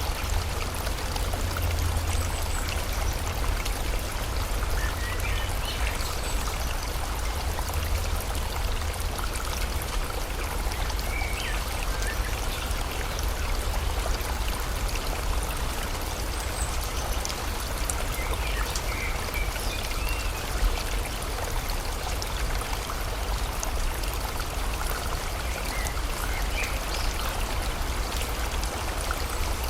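Steady rush of river water, with a few short bird chirps scattered through it.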